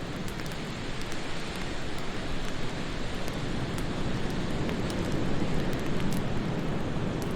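Steady wind noise that swells about five seconds in, with faint scattered crackles from a wood fire.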